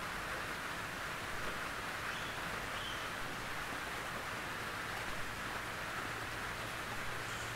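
Gentle rain falling steadily on a tin roof, an even, unbroken patter-hiss with no thunder.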